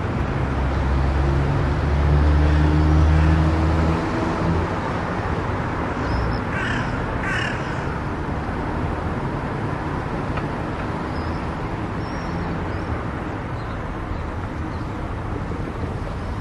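Steady road and tyre noise of a car driving on a highway, with a heavier low rumble in the first few seconds. About six and a half seconds in come two short caws in quick succession.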